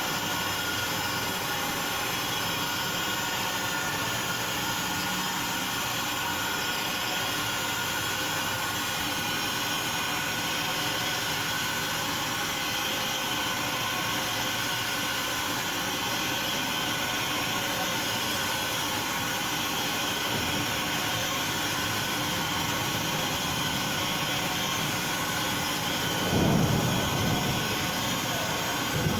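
Large machine tool running steadily while machining a heat exchanger cover, a constant mechanical noise with several steady tones. Near the end it briefly swells louder with a falling low tone.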